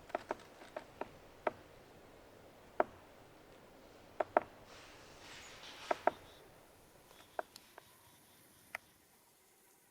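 A string of sharp, separate clicks and pops at uneven intervals, sometimes two close together, with a soft hiss rising and fading about halfway through.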